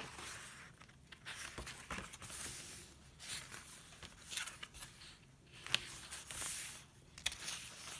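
Pages of a handmade paper junk journal being turned and handled, giving a series of soft paper swishes and rustles, with one sharp tick about two-thirds of the way through.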